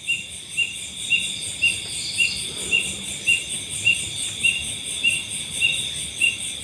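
Night insects chorusing: a steady high shrill trill with one short chirp repeating evenly, just under twice a second.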